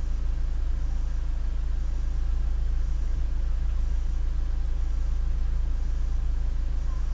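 2016 Mazda2 hatchback's exhaust through a custom double-wall free-flow muffler, idling steadily with a deep, even low rumble.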